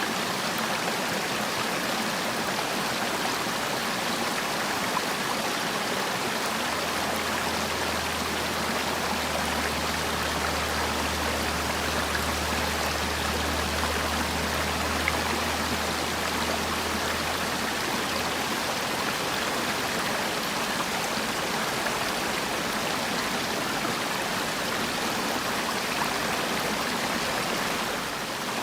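Mountain stream rushing and splashing steadily over rocks. A low hum sits underneath for about ten seconds partway through.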